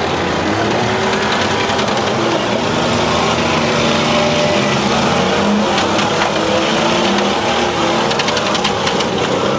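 Several demolition derby cars' engines running and revving at once, each pitch rising and falling as the drivers work the throttles. A few sharp knocks come about six seconds in and again near the end.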